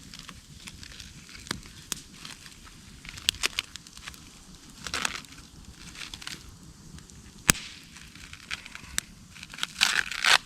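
Wood campfire crackling, with scattered sharp pops at irregular intervals, and brief rustling about halfway through and near the end.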